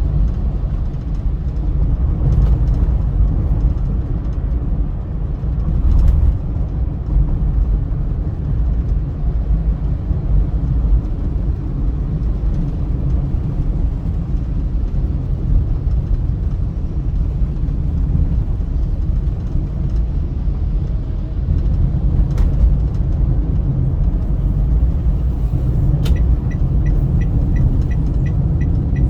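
Car driving at speed on a highway, a steady low rumble of road and engine noise. A few faint clicks come through it, and near the end a rapid run of soft ticks, about three or four a second.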